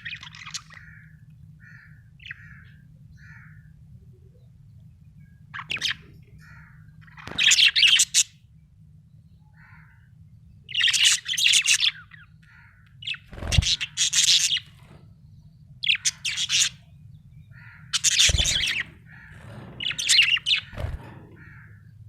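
Budgerigar chirping and chattering in bursts of a second or so, with softer short chirps in between. A steady low hum runs underneath.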